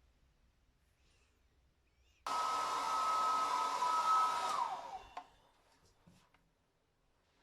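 A small electric motor appliance switched on abruptly, running with a steady hiss and a high whine for about two and a half seconds, then switched off, its whine falling in pitch as it spins down.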